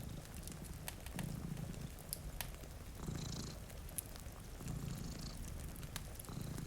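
Domestic cat purring close up, the purr swelling with each breath about every second and a half, four times. Sharp crackles and pops of a wood fire are scattered through it over a steady hiss of rain.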